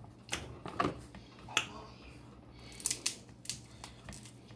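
Snow crab legs being eaten up close: a scattered series of short, sharp clicks and crackles from the shells and mouth, about half a dozen over a few seconds.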